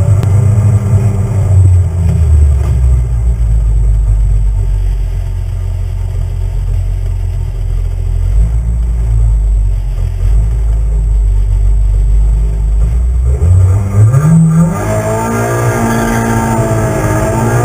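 Toyota Corolla AE92 race car's four-cylinder engine, heard from inside the cabin, running steadily at the start line. About three-quarters of the way through, the revs climb sharply as the car launches and accelerates away.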